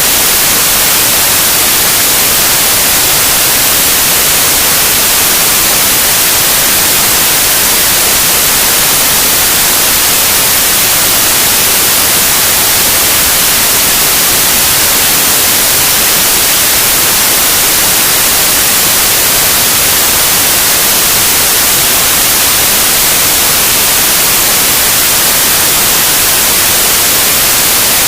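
Loud, steady white noise: an even hiss across the whole range, unchanging.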